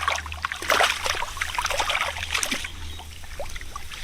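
Shallow water splashing and dripping in irregular bursts, with the splashes coming thicker in the first half and thinning out near the end.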